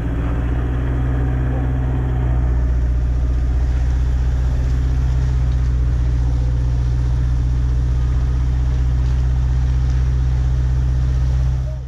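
A four-wheel-drive vehicle's engine running steadily at low revs as it crawls through thick mud, fading out near the end.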